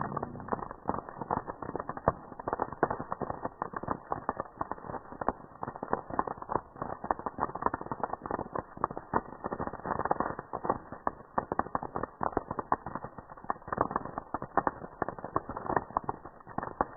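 Campfire crackling, with dense irregular pops and snaps.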